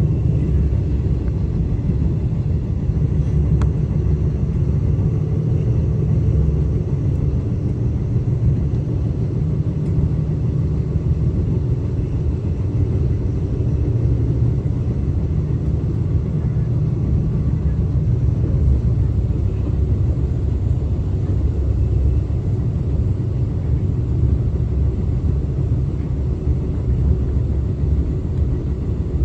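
Steady low rumble of a moving train, heard from aboard as it runs along the track.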